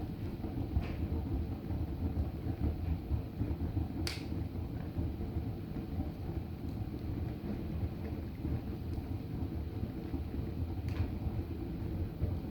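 Log fire in a fireplace burning books: a steady low rumble of burning with a few sharp crackles and pops, the loudest about four seconds in.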